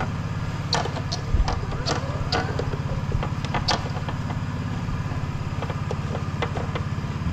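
An engine idling steadily, with several sharp metallic clinks and knocks in the first few seconds.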